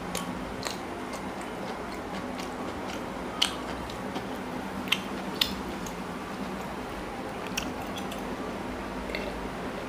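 Close-miked eating by hand: a person chews paratha with chicken curry, with several sharp wet mouth clicks and smacks over a steady low background hum.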